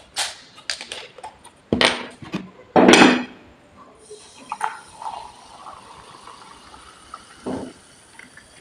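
Several sharp handling noises, the loudest about three seconds in, then a steady fizzing hiss of carbonated liquid: a Limca soft drink being opened and fizzing.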